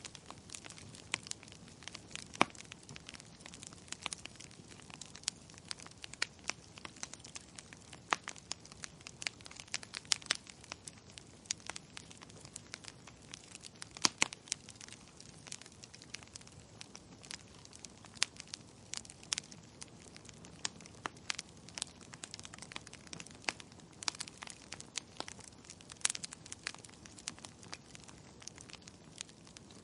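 Wood fire burning in a fireplace, crackling with many sharp irregular pops and snaps over a faint hiss.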